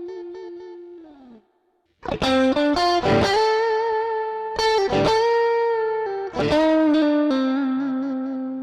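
Electric guitar with light overdrive playing a slow lead phrase. A held note with vibrato fades and slides down in pitch, then after a short pause picked single notes and long held notes follow from about two seconds in.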